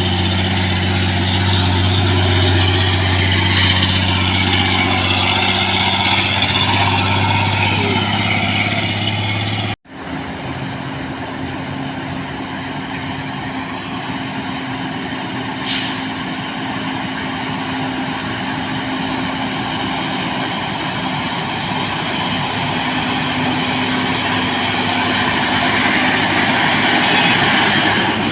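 Heavy diesel trucks labouring up a steep hill, their engines droning steadily under load. About ten seconds in, the sound cuts out for an instant and comes back as a different, higher engine note, with a brief hiss around sixteen seconds in.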